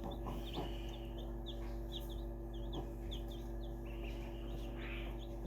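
Ducklings peeping: many short, high, falling peeps, several a second, over a steady low hum.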